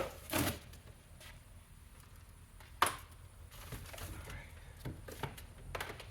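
Handling noise from vacuum cleaners and their parts being picked up and set down: a few separate knocks and clatters, the sharpest about three seconds in.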